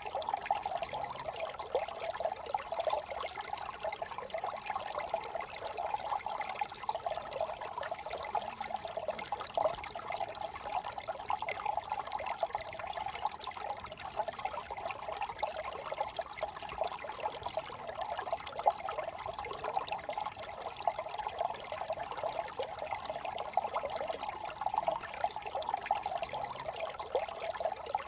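A brook running steadily, its water trickling without a break.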